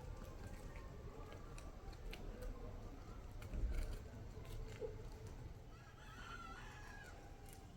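A rooster crowing once, faintly, near the end, over a low rumbling background with scattered small clicks.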